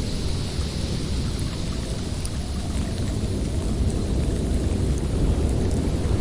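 Snowstorm wind blowing steadily with a deep rumble, swelling a little toward the end.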